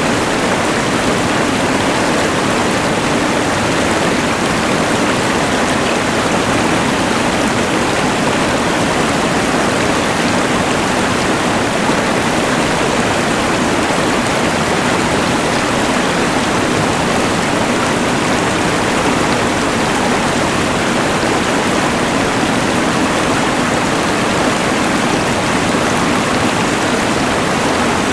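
Rushing mountain river blended with the hiss of a LectroFan white noise machine: a steady, unbroken rush of noise with no change in level.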